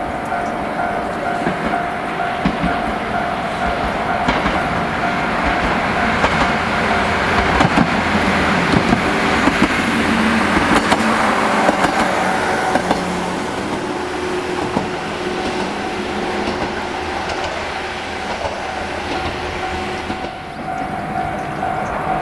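A train running past over jointed rail, its wheels clacking over the rail joints, loudest in the middle and then easing off. A steady repeating tone is heard at the start and returns near the end.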